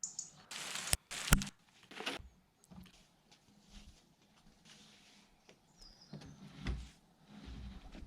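A few sharp knocks about a second in, the second one the loudest, followed by faint scattered knocks and rustles.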